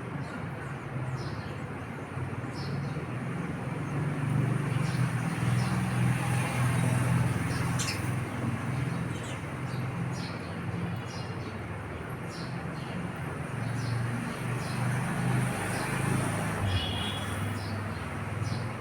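House sparrows chirping in short high notes about once a second over a steady low rumble of road traffic.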